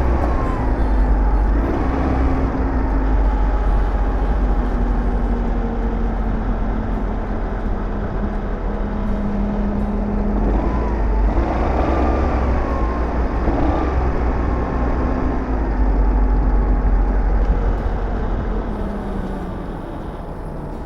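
Aprilia SR GT 200 scooter's single-cylinder four-stroke engine running under way, over a heavy low rumble of wind and road noise. Its pitch rises and falls with the throttle, and the whole sound fades down over the last few seconds.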